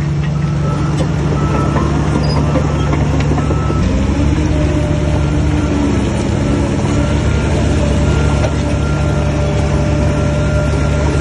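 Heavy earth-moving diesel engine running steadily under load, its pitch shifting slightly about four seconds in.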